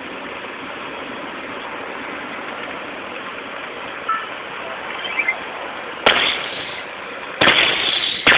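Fireworks going off over a steady background noise: a sharp bang about six seconds in, then a louder bang with crackling about a second and a half later, and another bang near the end.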